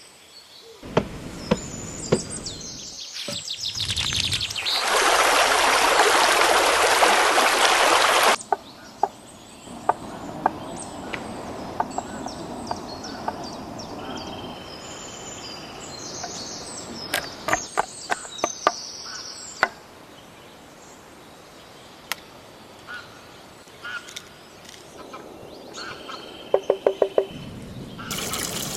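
Birds chirping, with scattered sharp knocks and clatter. About five seconds in, a loud steady hiss starts and lasts roughly three seconds before cutting off.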